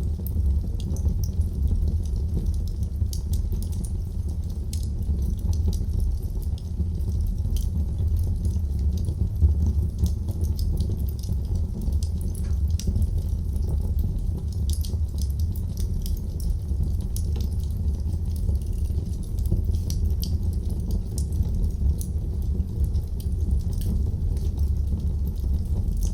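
Wood fire burning in a fireplace: frequent small, irregular crackles and pops over a steady low rumble of the flames.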